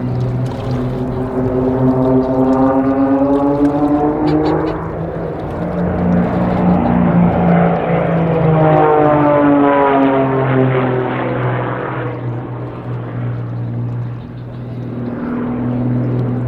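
Propeller-driven aerobatic display aircraft flying past, their engines' drone sweeping in pitch as they pass. It swells twice, once a few seconds in and again around ten seconds.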